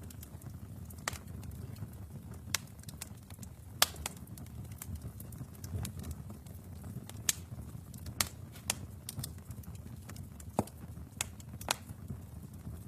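Wood fire burning in a fireplace, crackling: a low steady rumble of flames with irregular sharp pops and snaps from the burning logs, the loudest about four seconds in.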